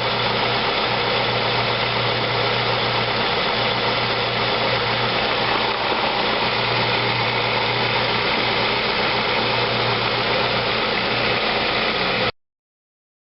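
A 2006 Ford Escape's 2.3L Duratec four-cylinder engine idling steadily, with its serpentine belt accessory drive turning; the sound cuts off suddenly near the end.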